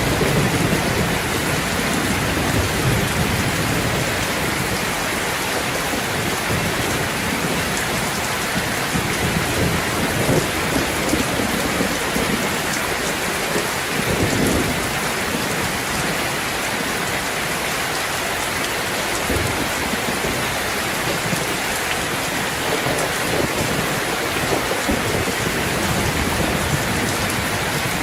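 Steady, heavy rain falling on a terrace, a continuous hiss, with low rumbles of thunder swelling up now and then, the clearest about halfway through.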